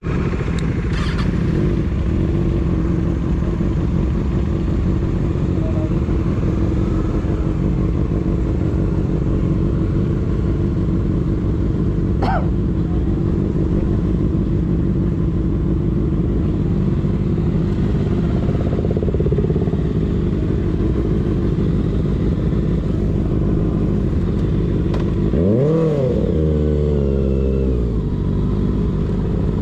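Motorcycle engine idling steadily, with one quick rev that rises and falls about 25 seconds in.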